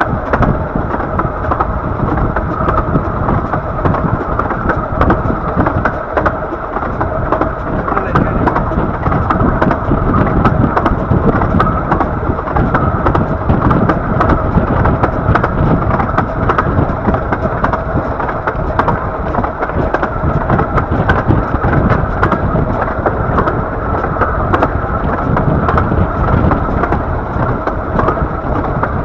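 Steady rumble of a 15-inch gauge Bure Valley Railway train running along the track, heard from a carriage, with short clicks scattered through it.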